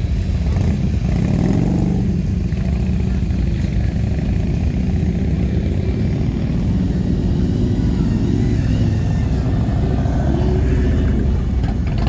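Motorcycle engines running in a loud, steady low din, with engine notes rising and falling as bikes rev and pass, once a second or two in and again later.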